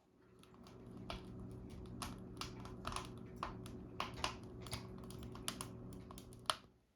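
Rapid, irregular clicks and taps over a steady low hum; the hum fades in at the start and cuts off just before the end.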